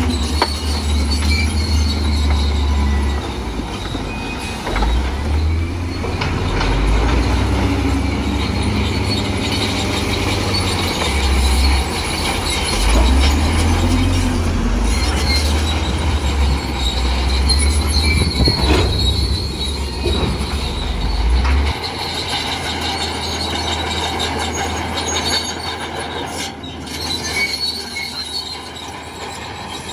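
Bulldozer at work: its steel crawler tracks squealing and clanking over the engine's running. A heavy low rumble drops away about two-thirds of the way in.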